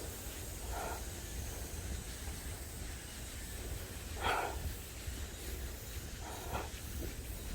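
Frogs croaking: a few short single croaks at uneven gaps of one to three seconds, the strongest about halfway through, over a steady low rumble.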